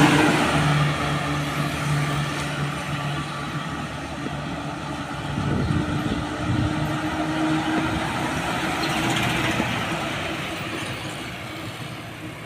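Heavy trucks passing on a road: one is loudest right at the start, its diesel engine note fading as it moves off. A second vehicle swells up and passes a few seconds in, then the traffic noise dies away toward the end.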